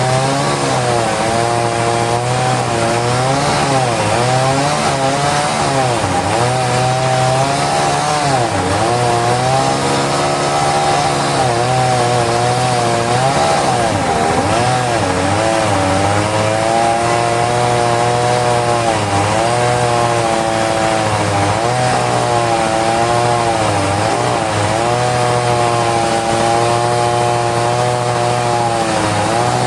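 Engine-powered saw running hard through wood, its engine pitch dipping under load and picking up again many times over.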